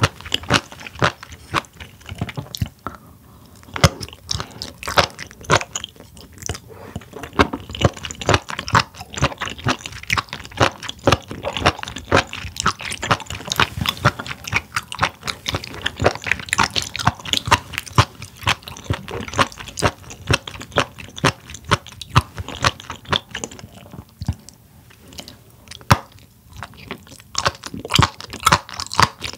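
Close-miked chewing of spoon worm (gaebul) sashimi: a rapid, irregular run of crunchy bites and clicks from the firm, springy flesh, with a few short pauses between mouthfuls.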